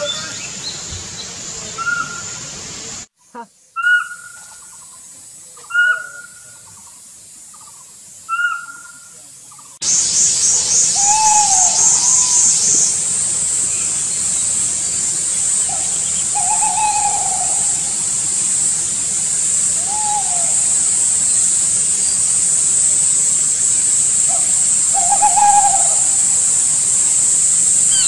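Bird calls: short single arched notes repeated every two to four seconds, over a steady high-pitched drone. The sound changes abruptly twice. About three seconds in, the drone drops out and the calls stand alone. About ten seconds in, the drone returns loud and the calls become lower.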